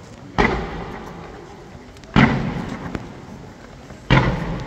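Aerial firework shells bursting: three loud booms about two seconds apart, each fading away over a second or so.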